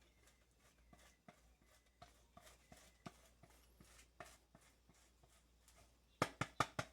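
Faint scattered taps and light rustling of hands handling food on a work surface, then a quick run of about five sharp clicks near the end.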